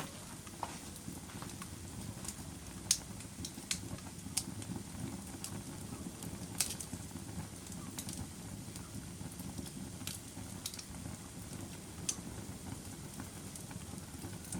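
Wood fire burning in a fireplace: a steady low rush of flame with scattered sharp crackles and pops, the loudest about three seconds in, near the middle and about twelve seconds in.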